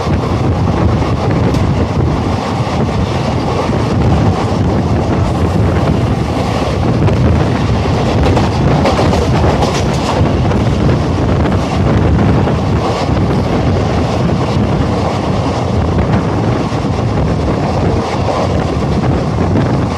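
Indian Railways express passenger coach running steadily at speed, heard at an open doorway: a loud, even rumble of wheels on rail, with wind buffeting the microphone and scattered clicks over rail joints.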